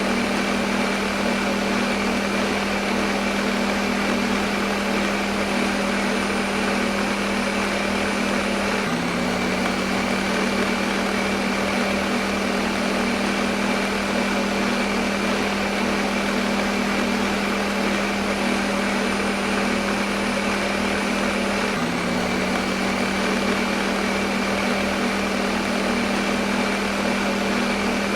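Electric kitchen blender running continuously: a steady motor whir with a strong low hum under a wide rushing noise. The hum shifts slightly in pitch about 9 seconds and again about 22 seconds in.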